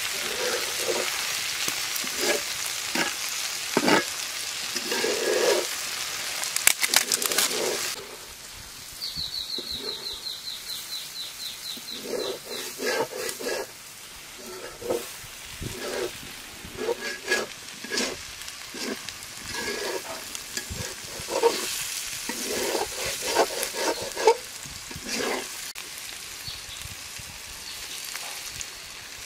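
Sliced okra frying in oil in an iron karahi, sizzling as it is stirred, with knocks and scrapes of the spatula against the pan. About eight seconds in the sizzling drops away, and a bird's rapid trill of high notes runs for about four seconds. Stirring sounds then resume.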